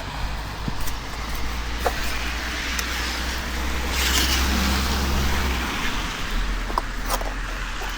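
Road traffic: a vehicle passing, its tyre hiss swelling to a peak about four seconds in over a steady low engine rumble that fades out near the end, with a few scattered clicks.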